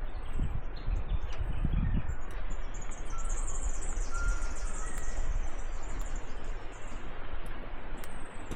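A bird calls with a high, rapid trill of about three seconds, starting a couple of seconds in, with a few other short chirps around it. Underneath runs a steady outdoor hiss and a low rumble, with a few low thumps near the start.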